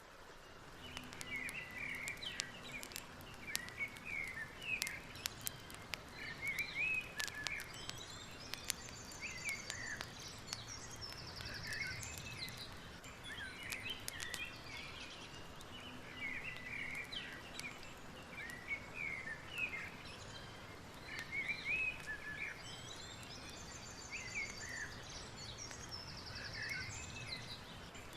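Birds chirping and singing in a steady stream of short calls over a constant low wash of background noise. A fast, high rattling trill comes twice, and sharp crackling clicks come now and then, mostly in the first half.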